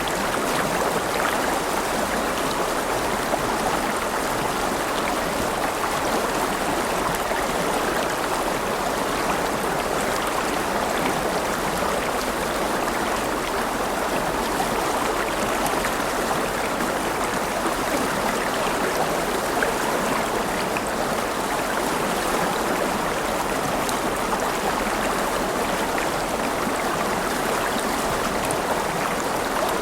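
River water flowing and rushing over rocks: a steady, even babble with no pauses or changes.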